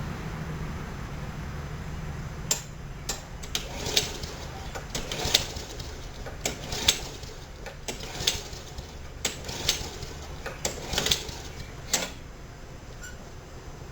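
A series of about twenty sharp, irregular clicks and knocks, spread over roughly ten seconds and stopping about twelve seconds in, over a low steady hum.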